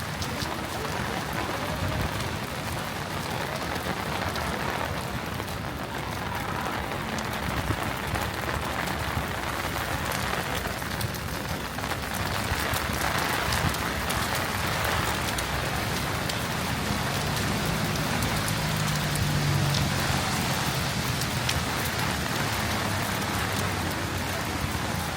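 Heavy rain falling in a city street: a steady dense hiss with countless fine drop patters. A low hum swells and fades in the last third.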